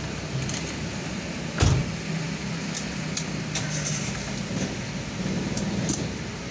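Car engine idling, heard from inside the cabin, with a steady low hum and motorcycles passing outside. A single loud thump comes about a second and a half in, and a few light clicks follow.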